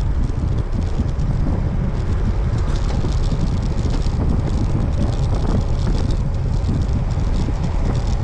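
Steady wind rumble on the microphone of a rider pedalling a road bicycle at speed.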